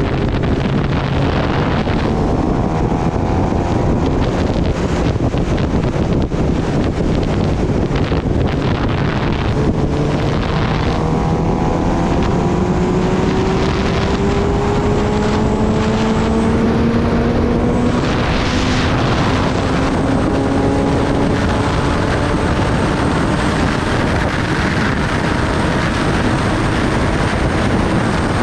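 Kawasaki Ninja ZX-10R inline-four engine running under way, its note climbing slowly in pitch through the middle, half buried under heavy wind noise on the microphone.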